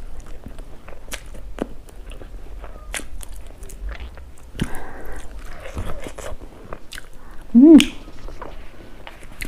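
A person chewing and biting food close to the microphone, with many sharp mouth clicks and smacks. About three-quarters of the way through comes one brief, loud hum from the eater.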